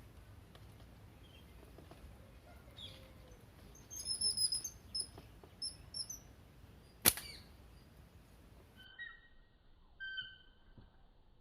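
Birds calling: a run of short, high chirps, broken about seven seconds in by one sharp, loud crack. Then comes a different bird's repeated whistled call, lower in pitch.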